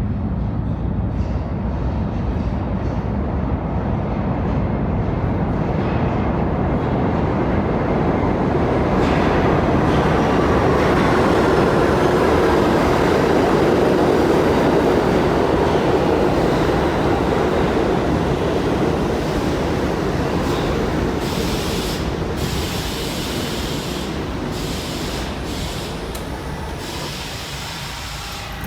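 New York City subway train running through a station: a loud, steady rumble of wheels on rail that builds to a peak about halfway through, then slowly fades.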